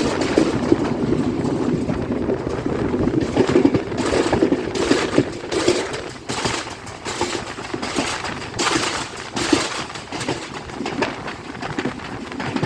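Train running along the track, heard on board: a steady rush of wind and running noise with an irregular clatter of sharp knocks and rattles, thickest in the middle.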